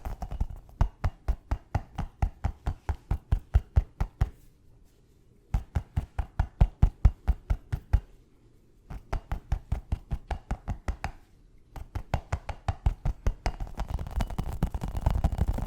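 Fast tapping on a hard object close to the microphone, in quick runs of several taps a second broken by short pauses. Near the end it changes to denser, continuous scratching.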